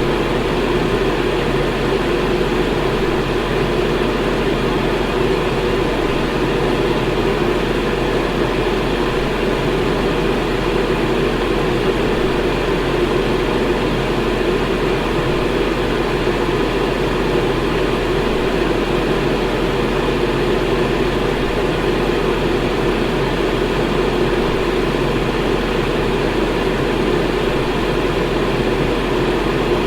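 Electric fan running steadily: a constant whoosh of moving air strongest in the low middle range, over a steady low hum.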